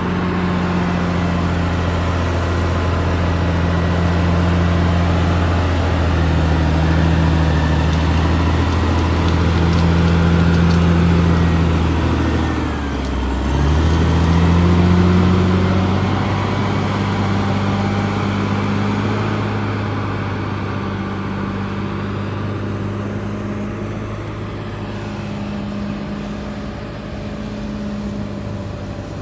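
Caterpillar D6R XL bulldozer's diesel engine running steadily while working. About halfway through, the engine note dips briefly and comes back up.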